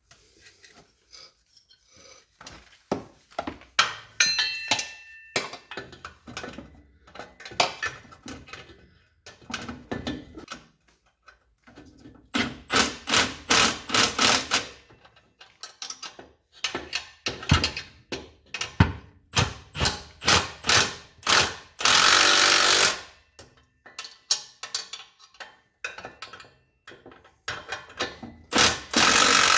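Tools working on the exhaust: runs of sharp metal clicks and knocks, with a power tool running for about a second around two-thirds of the way through and starting up again near the end.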